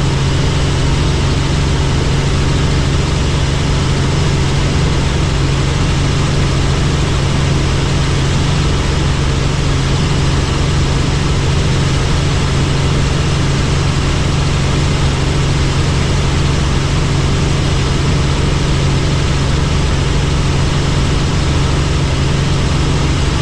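Helicopter engine and rotor running steadily: a constant loud drone with a strong low hum and an even rushing noise over it.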